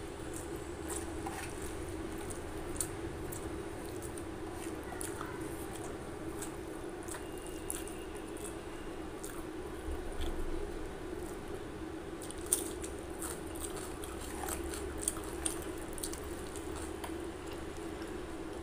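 Close-up eating sounds: a person chewing rice and curry, with scattered wet mouth clicks and the soft squish of fingers mixing food on a steel plate. A steady low hum runs underneath.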